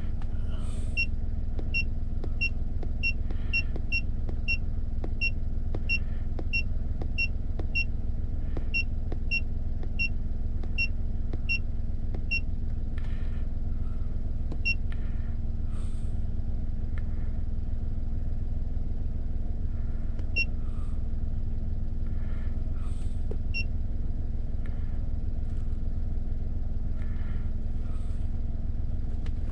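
Steady low hum of a Daihatsu car's engine idling, heard from inside the cabin. Over it, short high beeps from the Autek iFix 969 scan tool's keypad as its arrow buttons are pressed: a quick run of about two a second through the first ten seconds or so, then a few scattered ones.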